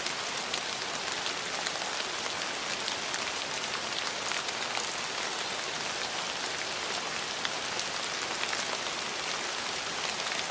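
Steady rain falling, an even hiss with many small drop ticks pattering on a hard surface.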